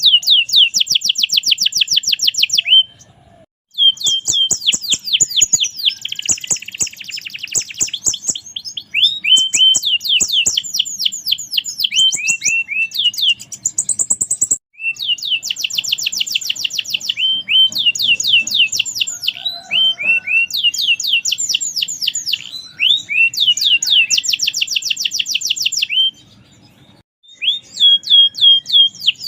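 Domestic canary singing continuously in long, rapid trills, each phrase a fast run of repeated high notes, with brief pauses about three seconds in and again near the end.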